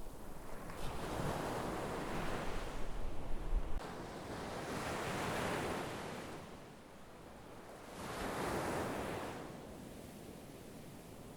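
Sea waves breaking and washing up the shore, surging and ebbing three times in slow succession.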